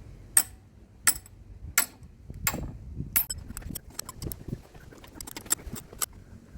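Sharp metal-on-metal taps about every 0.7 seconds, followed by a quicker run of lighter clicks: a lump hammer knocking on a 15 mm spanner to shock a stuck bolt loose.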